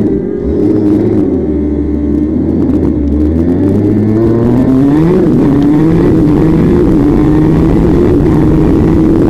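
Small racing engine heard up close, coming off the throttle at first, then revving up about four seconds in and holding at high revs.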